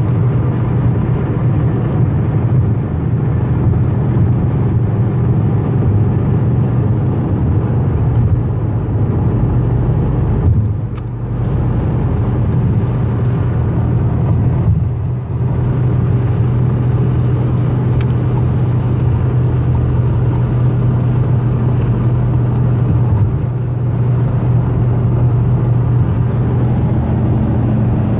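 Car engine and road noise droning steadily at highway speed, heard from inside the cabin. The drone drops off briefly twice, about 11 and 15 seconds in.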